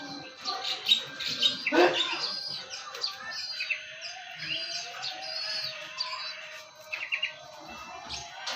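Small birds chirping and tweeting: many short, high calls overlapping, one louder sweeping call about two seconds in, and a steady tone held underneath through the second half.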